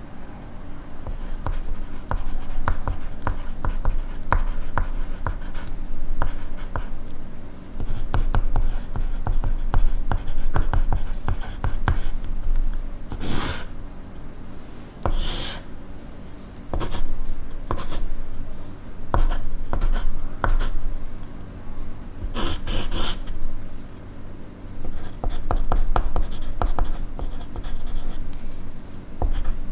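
Pencil writing on paper: a steady run of small scratching strokes and taps, broken by a few brief louder swishes, one about halfway through and a double one about three-quarters of the way in.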